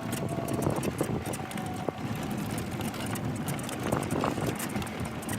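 Golf cart driving over a rough woodland trail: its motor runs steadily under a constant rumble, with frequent small knocks and rattles from the cart bouncing over the ground.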